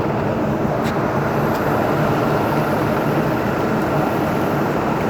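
Steady engine drone and road noise of a moving bus, heard from inside the cabin.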